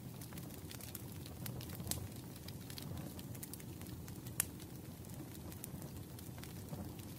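Wood fire crackling in a fireplace: irregular sharp pops and snaps over a low steady rumble, with one louder pop about four and a half seconds in.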